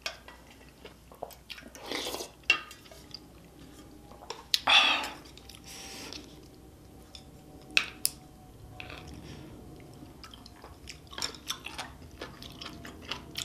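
Close-miked eating of yukgaejang (spicy beef soup) with rice: chewing, with a few sharp clinks of a utensil against the dishes and a cluster of small crunchy chewing clicks near the end.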